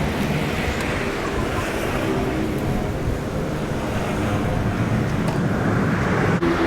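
City road traffic: car engines running close by over a steady roadway rumble, the engine hum swelling again near the end.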